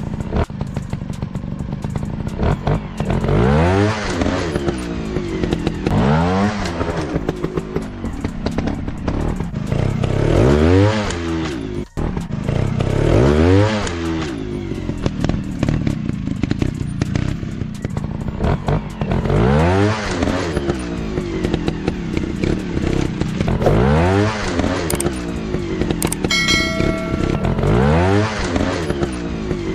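Single-cylinder four-stroke dirt bike engines revving hard again and again, each rev climbing in pitch and dropping back, over a steady low engine drone.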